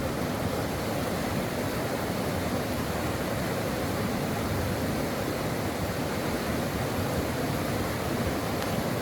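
Brook water flowing steadily, an even rushing noise with no separate splashes or breaks.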